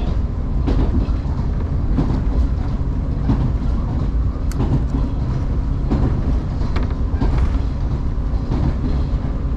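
JR Kusatsu Line electric train running along the line, heard from inside the carriage: a steady low rumble with repeated clicks of the wheels over rail joints.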